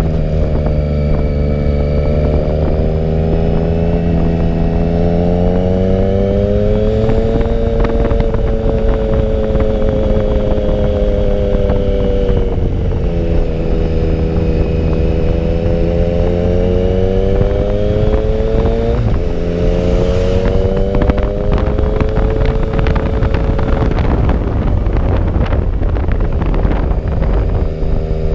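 Sport motorcycle engine running under way, its note rising and falling gently with the throttle, over a steady rumble of wind and road noise.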